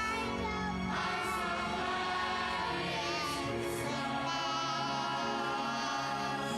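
Children's choir singing a song over instrumental accompaniment, the voices and the music running on steadily.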